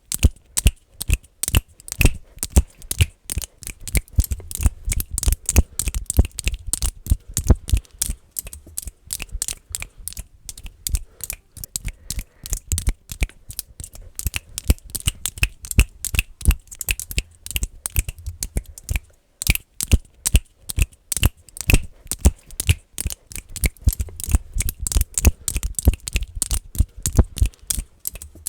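Fast, irregular finger clicking close to the microphone: sharp clicks several times a second, each with a low thud, with a brief lull about two-thirds of the way through.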